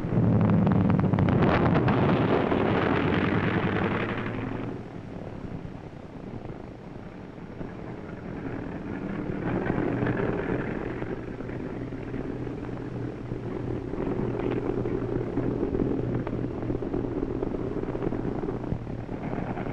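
Propeller aircraft engines running: very loud for the first four seconds or so, then a steadier engine drone with a low hum that swells again about ten seconds in.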